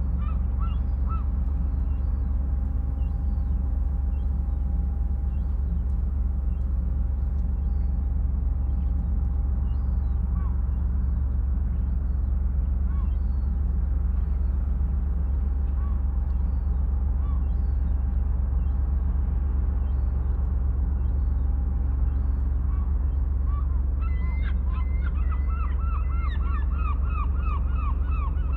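Birds calling over a steady low rumble of the sea, with scattered single calls and then a rapid series of repeated calls near the end.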